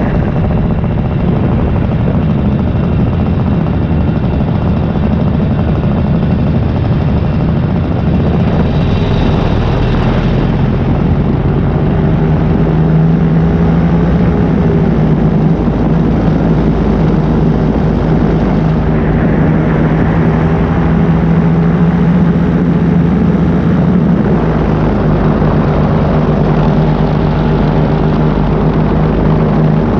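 Paramotor engine and propeller running steadily in flight, its note shifting slightly about twelve and nineteen seconds in.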